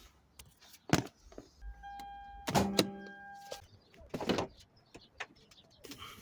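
Clicks and knocks of a vehicle being handled, with a double clunk in the middle, while a steady electronic beep sounds for about two seconds.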